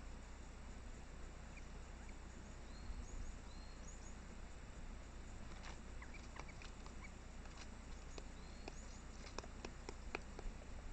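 Irregular sharp taps, typical of a Japanese green woodpecker pecking at bark, sparse at first and coming more often in the second half. A few faint, short, high chirps sound in between.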